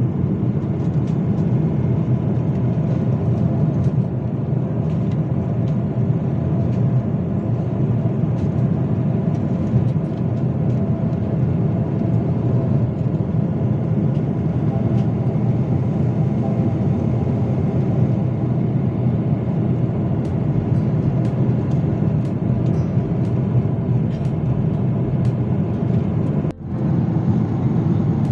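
Steady low rumble of an airliner's engines and airflow heard inside the passenger cabin. It drops out briefly near the end.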